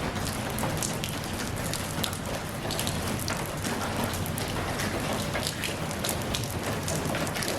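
Steady rain falling, with many separate drops landing close by as sharp ticks over an even hiss.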